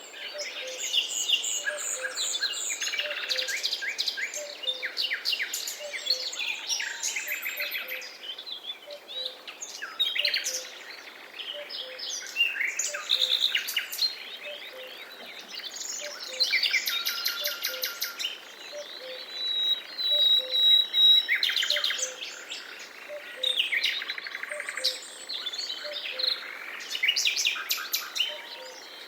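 Forest birdsong: several songbirds singing and calling over one another in rapid trills and chirps. Beneath them a faint low note repeats at short, regular intervals.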